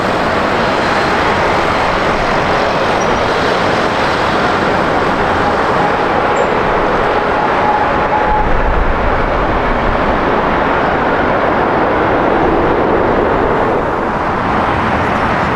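Jet airliner engines running close by, a loud steady rushing noise; from about halfway the hiss fades and a deep rumble takes over as the aircraft moves on.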